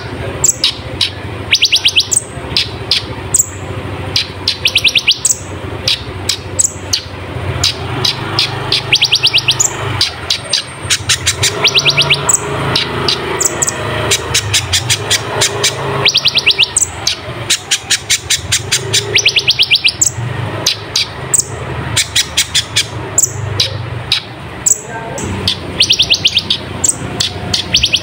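Kolibri ninja (a sunbird) singing hard, pouring out rapid bursts of sharp, high, falling chirps and fast trills over and over with short gaps between them. A steady low hum runs underneath.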